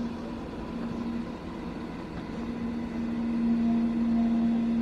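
A steady low mechanical hum over a rumbling noise. The hum drops out briefly about a second in, then returns, and the sound grows louder toward the end.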